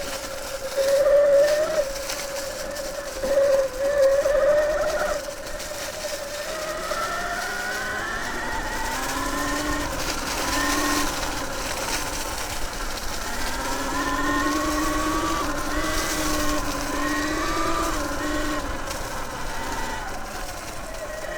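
Sur Ron Light Bee electric motorcycle's motor and drivetrain whining while being ridden off-road, the pitch holding steady at first, then gliding up and down with the throttle, with a couple of louder surges in the first five seconds.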